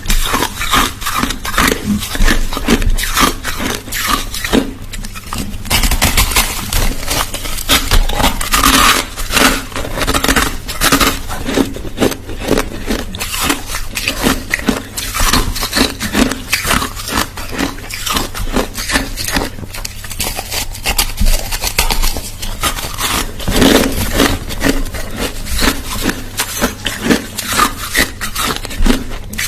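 Crushed ice being chewed close to the microphone: a dense, irregular run of loud crunches and crackles, with brief lulls between mouthfuls.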